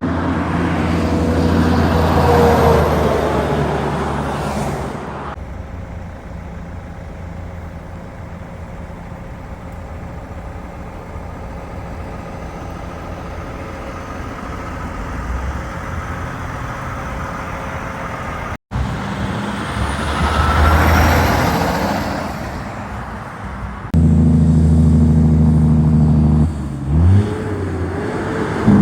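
Heavy trucks driving past on a road, engines running with tyre noise. One passes near the start and another about two-thirds through. Near the end a close truck engine runs loudly and steadily, with a brief rise in pitch.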